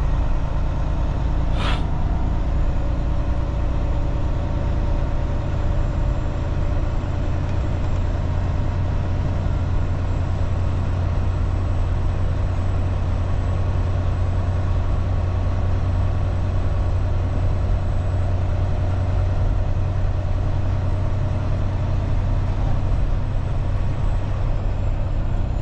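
Steady low drone of a semi truck's diesel engine and road noise heard inside the cab while driving, with one brief click about two seconds in.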